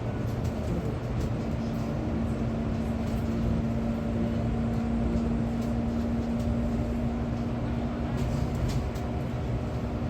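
Steady vehicle running noise: a low rumble with one constant hum held throughout.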